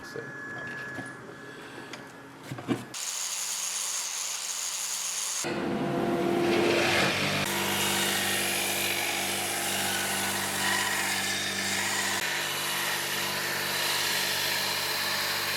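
A few light knocks, then about five seconds in a power sander starts running steadily, grinding down the wooden handle of a handmade knife.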